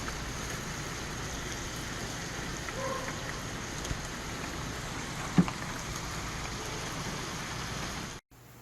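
Chicken sizzling on a grill, a steady crackle, with one sharp click about five seconds in. The sound cuts off suddenly near the end.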